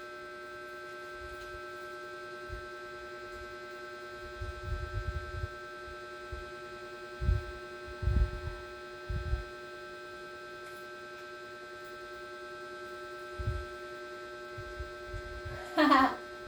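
Steady electrical mains hum, with several dull low bumps of handling noise scattered through it.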